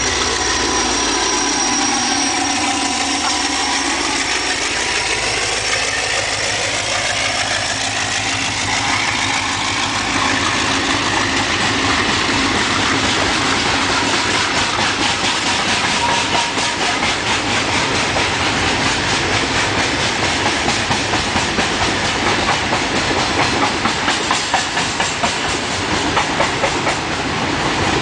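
Diesel locomotive passing with its engine running, the engine note falling in pitch as it goes by, followed by a long string of coal wagons rolling past. The wagons' wheels clack rhythmically over the rail joints, the clacking more distinct in the second half.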